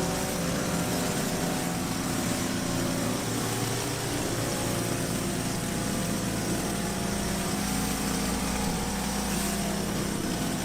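Small gasoline engine of a 3100 psi pressure washer running steadily at an even speed.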